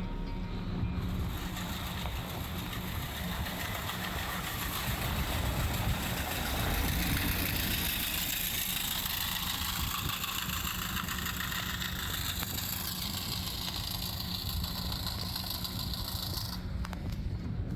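Plow truck's engine running steadily with a low hum, under an even hiss that drops away sharply near the end.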